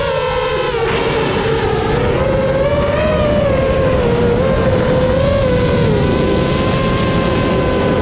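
A 7-inch FPV quadcopter's EMAX ECO II 2806 1500kv brushless motors and propellers whining in flight, the pitch wavering up and down as the throttle changes, over a steady rush of air noise.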